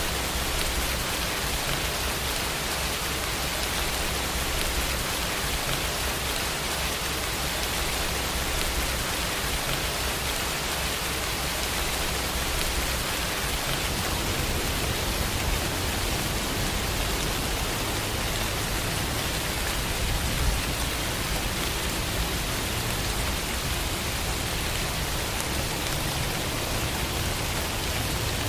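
Steady rain falling, an even, unbroken hiss with a soft low rumble underneath.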